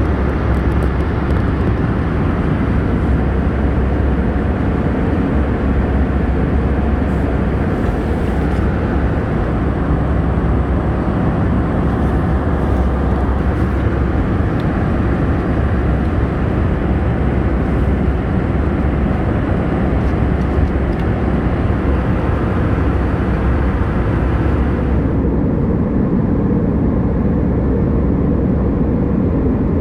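Steady cabin noise inside an Airbus A319 airliner: a low rumble of engines and airflow. The higher hiss drops away suddenly near the end.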